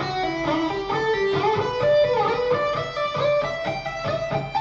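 Clean-toned electric guitar playing a single-note lead run at a slowed tempo, the same short note shape repeated at higher and higher positions up the neck, joined by slides, mixing minor pentatonic and Dorian notes.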